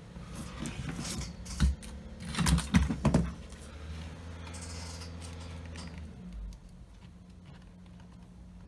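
Light clicks and knocks of a foam model aircraft being handled and set on a balancing stand, with a cluster of louder taps about two and a half to three seconds in, then a low steady hum for a couple of seconds.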